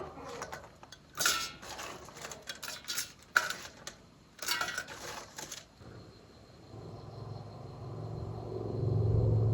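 Clinks and clatter of kitchenware being handled, a string of sharp knocks over the first five seconds. From about six and a half seconds in, a low steady hum starts and grows louder toward the end.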